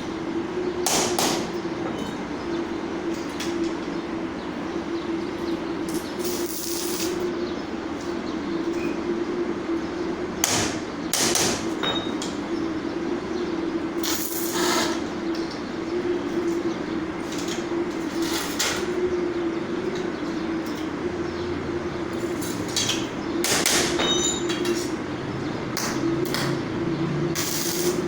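Electric arc welding: the welding machine hums steadily under the continuous crackle of the arc, with irregular sharp knocks scattered through it.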